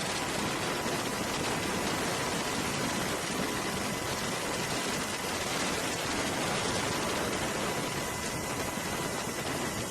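Steady rushing noise with a faint steady high tone underneath.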